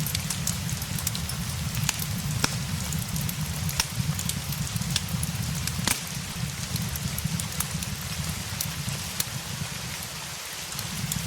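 Steady rain with a low rumble underneath, and sharp crackles and pops from a wood fire scattered through it every second or so.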